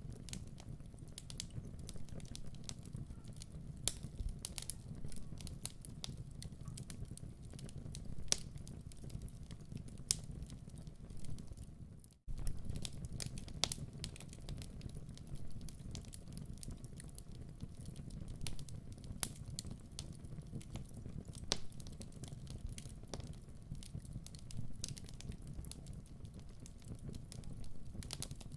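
Wood fire crackling, with irregular sharp pops over a steady low rumble. About twelve seconds in the sound briefly dies away and then comes back suddenly.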